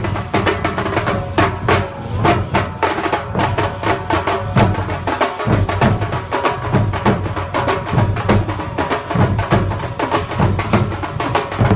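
Thambolam melam, a Kerala festival percussion ensemble, playing a fast, dense drum rhythm with many strokes a second and held pitched notes underneath.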